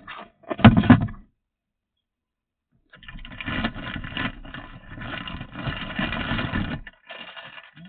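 A clatter, then a small electric kitchen motor, such as a blender or grinder, runs with a wavering hum for about four seconds and runs again briefly near the end.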